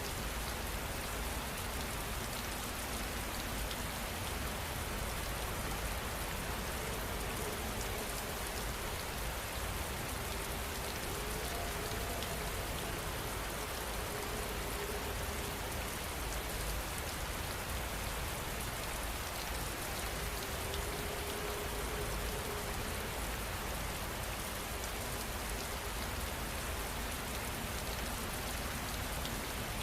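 Heavy rain falling steadily on surfaces, an even, unbroken hiss of dense drops.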